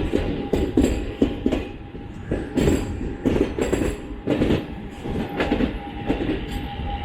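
Passenger train coach wheels clattering in irregular knocks over rail joints and points as the train runs slowly into a station.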